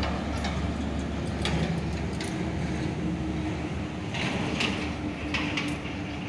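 Diesel locomotive hauling tank wagons approaches with a steady low engine rumble. A steady tone sets in about halfway through, and short sharp clicks and squeaks from the wheels on the rails come several times.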